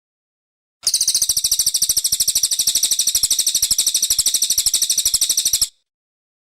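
Brown cililin singing one long, fast, high trill of evenly spaced notes, about fifteen a second. It starts about a second in and cuts off abruptly near the end.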